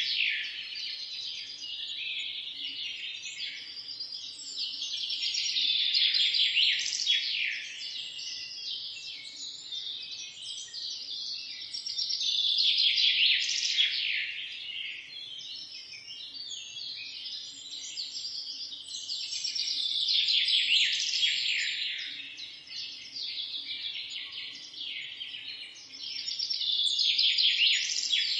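Several birds chirping and singing together in a dense, high-pitched chorus of quick twitters and trills. It swells louder and fades back about every seven seconds.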